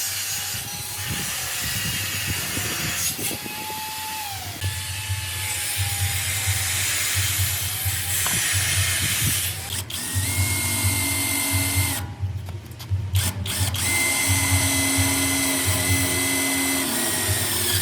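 A power tool running with a steady whine, cutting out briefly twice about twelve to thirteen seconds in before running on.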